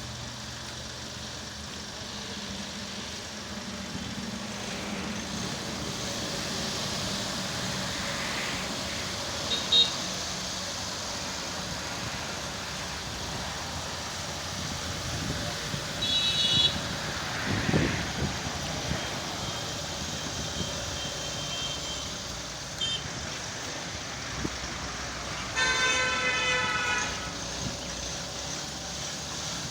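Road traffic noise with vehicle horns sounding: short toots about a third and half way through, and a longer honk of about a second and a half near the end. A low thump comes a little after the middle.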